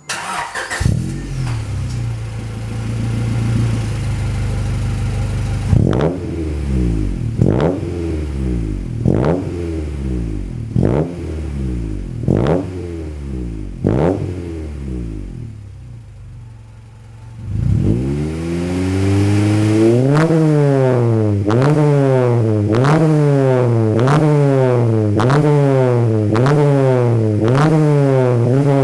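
Honda Integra Type R DC2 (96 spec) 1.8-litre VTEC four-cylinder through a Mugen muffler, revved while standing. A steady high idle at first, then six sharp single blips about a second and a half apart, a brief settle back to idle, then a long run of quick, rhythmic revs a little over one a second.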